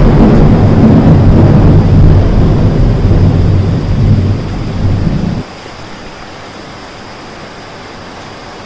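Loud, deep thunder rumbling over heavy rain. About five seconds in it cuts off suddenly, leaving a steady hiss of rain.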